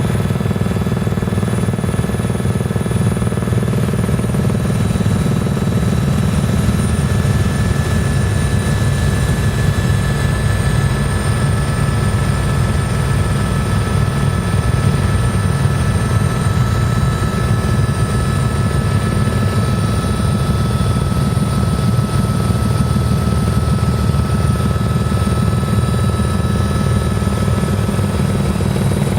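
Helicopter in flight: a steady, loud drone of rotor and engine with a constant high turbine whine over it, unchanging throughout.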